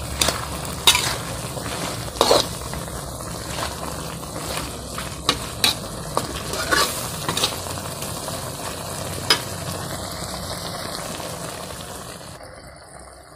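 Freshwater mussels in their shells sizzling in a metal pan of spicy sauce as they are stirred, with sharp clicks of the spatula and shells against the pan every second or two. The sound fades out near the end.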